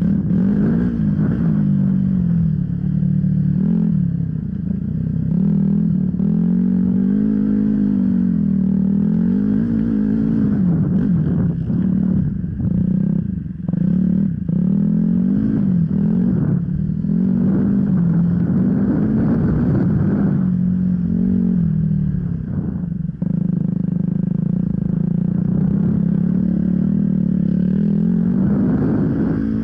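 Off-road enduro motorcycle engine being ridden hard, its revs rising and falling continually with the throttle, with short drops in revs here and there. Scattered clattering knocks run through it.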